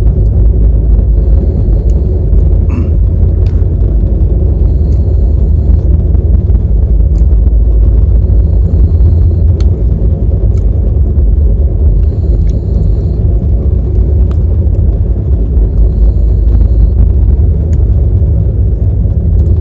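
Steady low rumble of a moving passenger train, with a few faint clicks and rattles over it.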